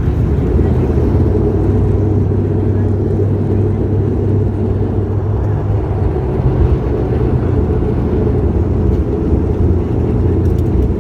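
Steady low drone of an ATR 72-500 airliner's twin turboprop engines and airflow, even and unbroken.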